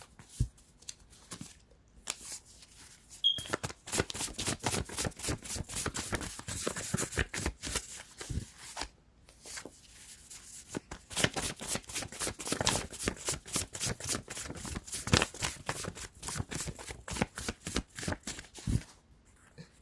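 Tarot cards being shuffled by hand: a long run of quick card clicks and flicks, with a brief pause about halfway through.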